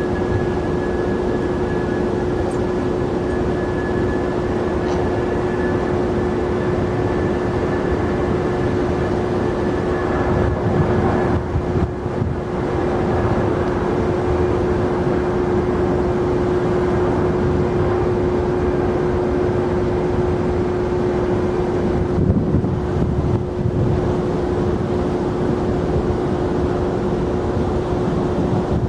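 Jet airliner engines running, a steady rumble with a constant whine that stops about two-thirds of the way through.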